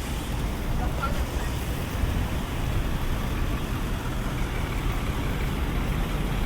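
Busy city street ambience: a steady low rumble of traffic with a haze of background noise.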